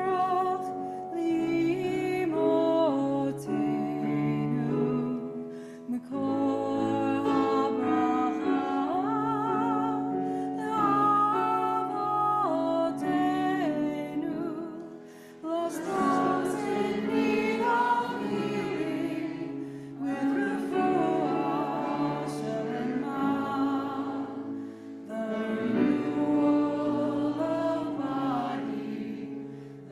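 Choir singing an anthem in phrases of a few seconds, with vibrato on held notes.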